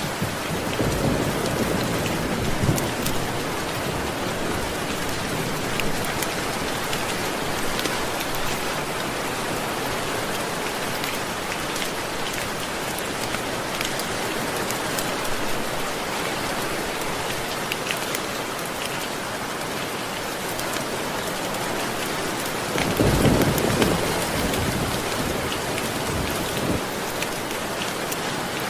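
Steady rain with scattered drops, and low rolls of thunder twice: just after the start and again about three-quarters of the way through, the second the loudest moment.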